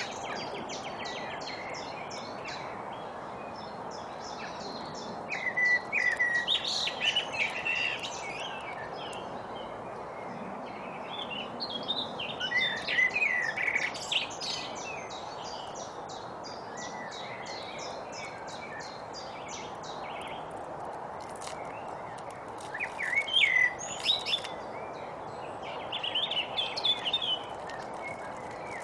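Small songbirds singing in four bouts of rapid chirps and trills, over a steady background hiss.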